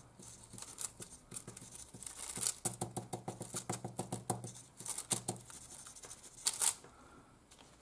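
A coloured pen scribbling quickly over crinkled foil: a rapid, irregular run of short scratchy strokes with crackles from the foil.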